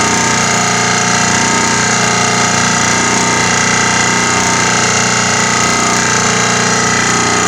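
Pile driver running steadily as it drives a steel profile pile into the ground: a loud, even mechanical drone made of several steady tones, with no separate blows.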